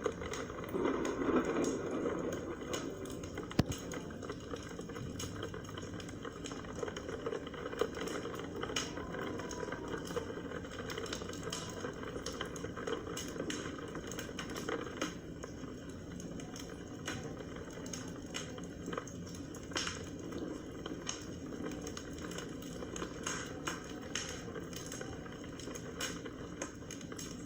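Wood fire burning in a large fireplace, crackling with irregular sharp pops over a steady hiss.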